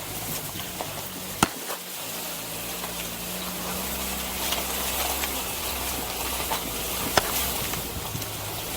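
Meat sizzling over a wood fire: a steady hiss with two sharp pops, one about a second and a half in and one near the end.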